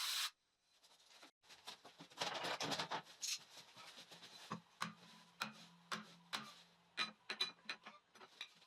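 A 32 mm wrench tapping an aluminium part to break the small tabs that hold it in the machined stock. About a dozen irregular light knocks come in the second half, after some scraping and handling.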